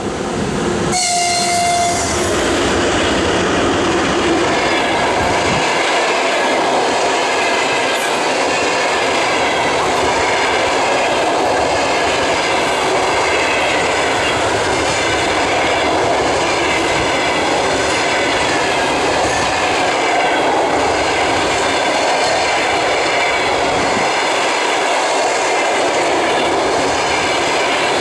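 2ES4K electric locomotive giving a short horn blast about a second in as it runs past, followed by its train of passenger coaches rolling by close at hand in a loud, steady rush of wheel and rail noise.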